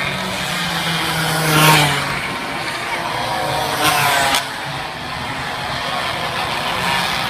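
Minibike racing engines running and revving, with two louder pass-bys about one and a half and four seconds in.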